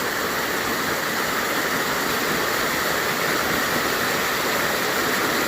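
Mountain creek water crashing through a narrow channel between rocks: a steady, loud rush of white water.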